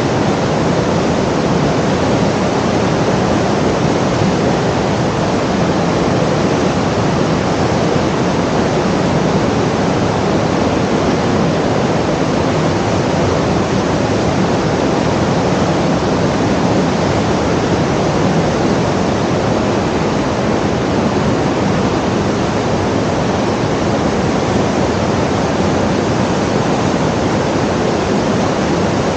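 Loud, steady rushing noise, even throughout with no breaks or gusts.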